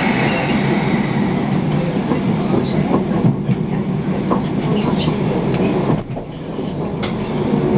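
Train running along the track, heard from inside a passenger carriage: a steady rumble with wheel clatter and a few knocks. Brief high-pitched squeals come at the start and again about five seconds in.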